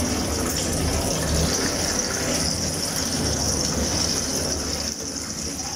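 Marinated chicken chaap sizzling steadily as it shallow-fries in hot oil in a frying pan.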